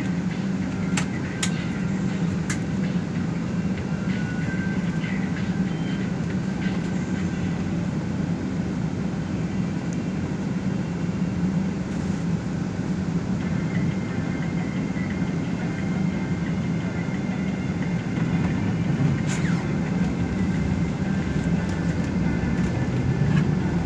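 Steady drone of an express bus cabin while driving: engine and road noise, with a few brief rattles early on and again near the end.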